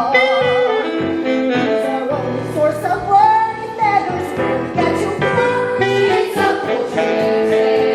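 Musical-theatre song number: singers with accompaniment, one voice holding a wavering note near the start, then several voices on long held notes.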